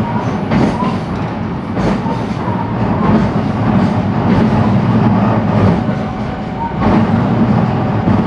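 Running sound inside a JR West 223-series electric train's motor car at speed: a steady rumble of wheels on rail, broken by a few sharp knocks from passing rail joints.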